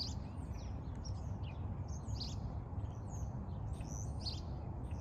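Songbirds chirping and twittering, many short quick notes one after another, over a steady low background rumble.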